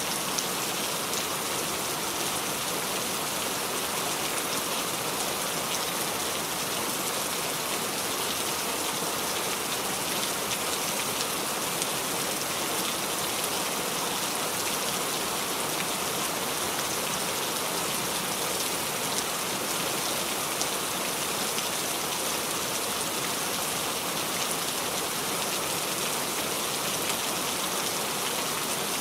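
Steady rain falling, with many fine drop ticks through an even hiss.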